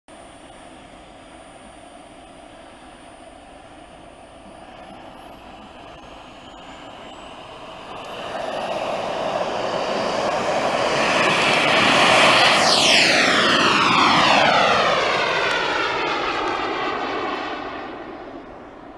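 Radio-controlled Eurofighter model jet making a pass: a steady whine swells loudly from about eight seconds in, peaks a few seconds later with a sweeping, falling pitch as it goes by, and fades away near the end.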